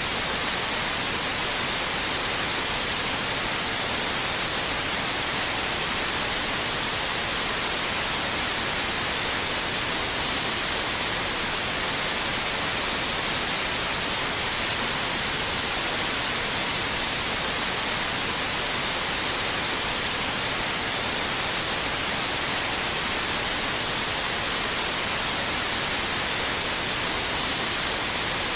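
Steady white noise: an even, unchanging hiss strongest in the high frequencies.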